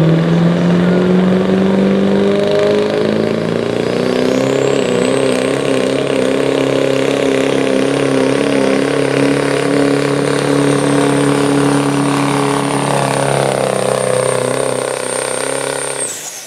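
Turbocharged diesel engine of a pulling vehicle running hard under load, its pitch climbing for the first few seconds and then holding, with a high turbocharger whistle that comes in a few seconds in and holds. The sound cuts off suddenly near the end.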